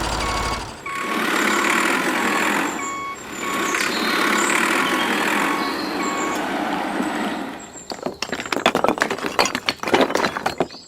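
Truck reversing alarm beeping at an even pace over a steady hissing engine noise. From about eight seconds in, this gives way to a rapid crackle of sharp clicks.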